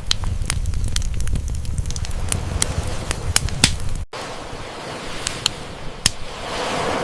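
Campfire crackling with many sharp pops over a low rumble of burning wood. A sea wave swells in near the end, and the sound drops out for an instant about four seconds in.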